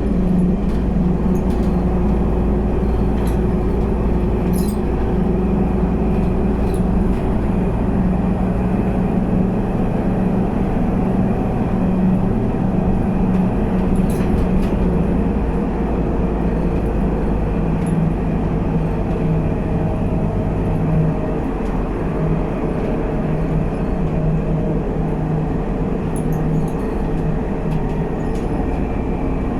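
Scania K320UA city bus heard from inside, its engine and drivetrain running steadily under way with a low rumble and a few light rattles. About two-thirds of the way through the engine note drops and eases off a little.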